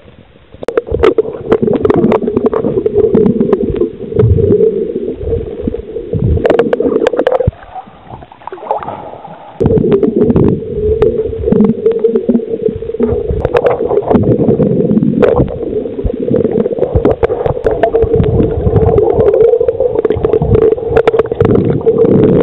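Sailboat under way: loud, gusty wind buffeting the microphone over water rushing and splashing along the hull, easing briefly about a third of the way in.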